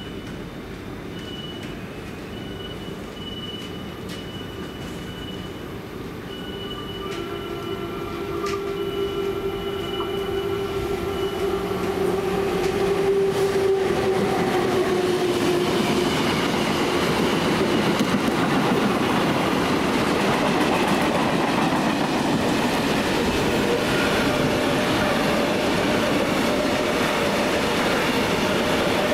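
SNCF BB 26000-class electric locomotive running through with a long freight train without stopping. It comes closer and grows louder, with a steady electrical whine that drops slightly in pitch as the locomotive passes about halfway through. After that the loaded wagons roll past in a dense, steady rumble and clatter.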